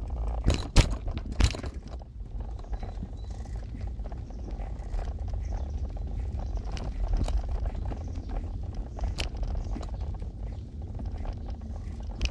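Car driving: the steady low rumble of engine and tyres on the road, with a few sharp knocks or rattles about half a second to a second and a half in.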